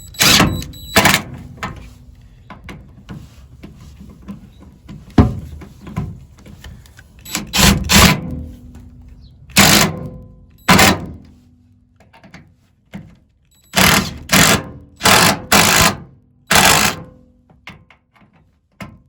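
DeWalt cordless power driver run in short trigger bursts, driving screws into the bed extender's mounting brackets: about a dozen brief bursts, some in quick pairs, with the motor humming briefly as it winds down after a few of them.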